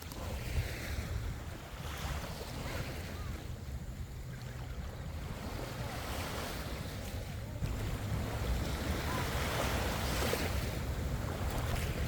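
Waves washing on the shoreline, with wind rumbling on the microphone.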